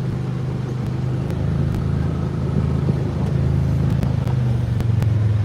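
A vehicle engine running steadily with a low, even hum, and a few faint ticks over it.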